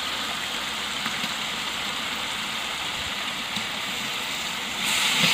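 Onion, tomato and ginger-garlic masala sizzling in hot oil in a large cooking pot, a steady hiss that grows louder near the end.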